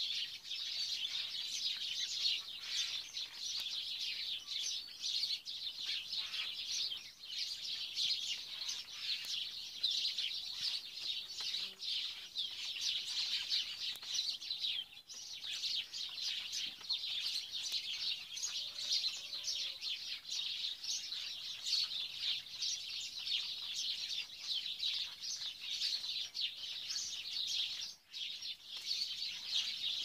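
Steady, dense chorus of high-pitched bird chirping, with brief lulls about halfway through and near the end.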